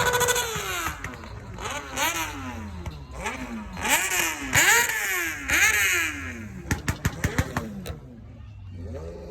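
Engine revved again and again in quick blips, its pitch climbing and falling about seven times. Near the end comes a rapid string of sharp pops, after which it settles to a low idle.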